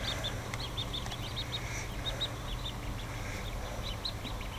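Newly hatched ducklings peeping: many short, high peeps in quick succession, over a steady low hum.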